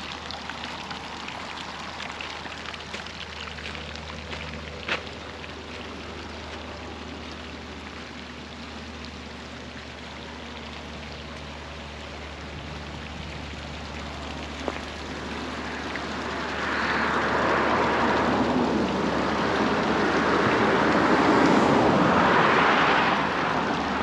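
Steady hiss of hot spring water running over the mineral mound. About two thirds of the way in, vehicles pass on the highway, their noise swelling twice and fading.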